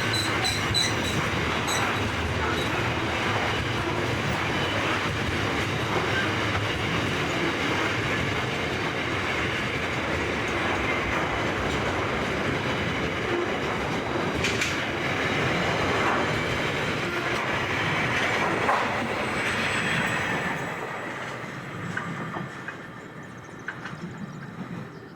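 Container train's wagons rolling past at speed, a steady loud rush of wheels on rail that dies away about twenty seconds in as the end of the train goes by.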